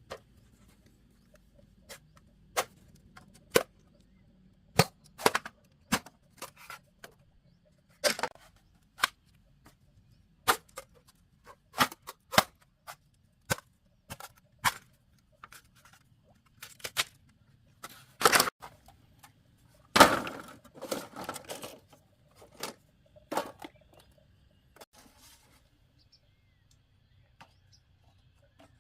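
Sharp, irregular knocks of a hand tool striking bamboo, about one a second, with two louder blows about two-thirds of the way through followed by a short rattle; the knocking stops a few seconds before the end.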